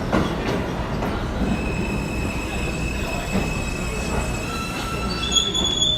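New York City subway train moving through the station with its wheels squealing: thin, steady high squeal tones at several pitches come and go over a constant rumble, with a few clicks near the start.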